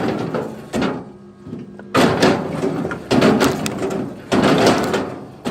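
Repeated heavy knocks of firewood, about one a second, each struck sharply and followed by a short clattering tail as the wood settles.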